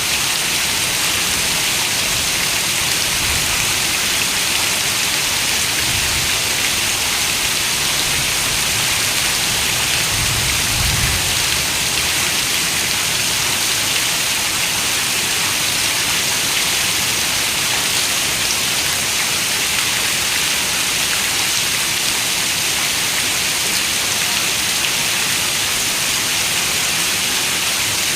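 Steady rain falling: an even, unbroken hiss of many drops. A faint low rumble swells up briefly about ten seconds in.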